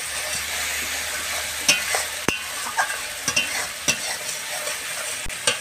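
Onion-and-spice masala sizzling in oil in a kadai as a metal spatula stirs and scrapes it, with sharp clicks of the spatula against the pan now and then. This is the masala being fried down (kosha) until the paste cooks through.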